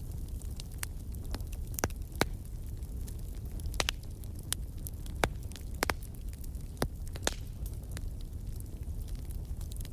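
Bonfire crackling: irregular sharp pops and snaps from the burning wood over a steady low rumble of the flames.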